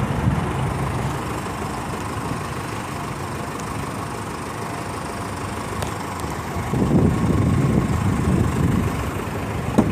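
A motor vehicle engine idling steadily, with a louder, rougher rumble of noise coming in about seven seconds in and easing off a second and a half later.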